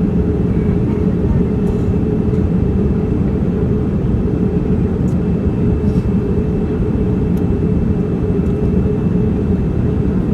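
Steady in-flight cabin drone of a Boeing 787, engine and airflow noise heard from inside the cabin, mostly deep, with a faint high steady tone over it.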